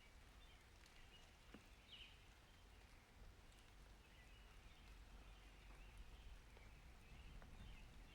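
Near silence: faint outdoor ambience with a low rumble and a few faint, short high chirps, the clearest about two seconds in.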